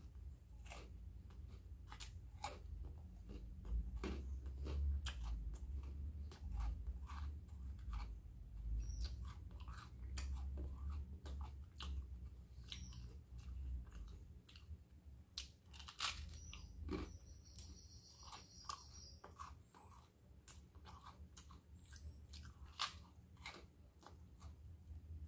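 Close-up mouth sounds of someone biting and chewing crisp toast: repeated sharp crunches spread unevenly throughout, with wet chewing between them.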